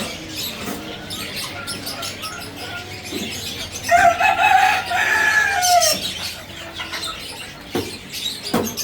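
A rooster crowing once: a single long call of about two seconds, starting about four seconds in and dropping slightly at the end, over scattered small knocks.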